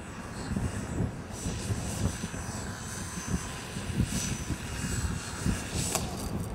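Radio-controlled model Cessna 182 flying overhead, its motor and propeller a thin high whine that shifts a little in pitch. Gusty wind buffets the microphone underneath it.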